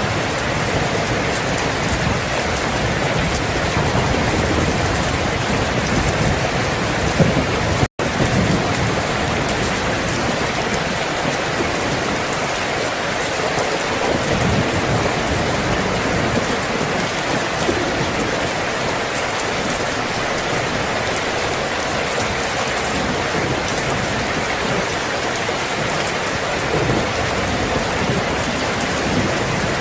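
Steady heavy rain falling, an even hiss, with a low rumble underneath during the first several seconds. The sound cuts out for a split second about eight seconds in, then the rain resumes.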